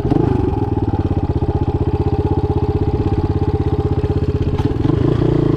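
Motoland Legend motorcycle engine idling steadily with an even, rapid putter.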